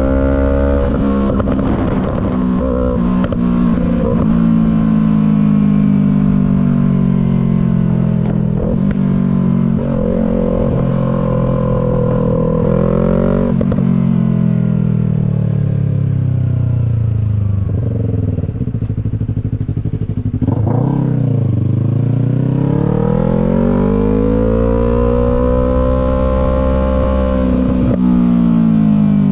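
Yamaha MT-03 with a full Disarsz aftermarket exhaust, riding with the engine note falling and rising with the revs. It drops through a long slowdown, then climbs steadily under acceleration. A few sharp pops come from the exhaust as the revs drop.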